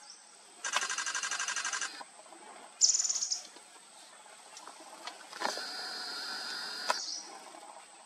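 Small forest birds calling: a rapid rattling trill about a second long, a short high note about three seconds in, then a steadier high call lasting about a second and a half.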